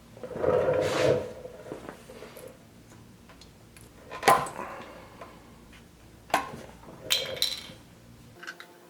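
Tools and small metal parts being handled: a brief rattle in the first second, then sharp metallic clinks and knocks about four, six and seven seconds in.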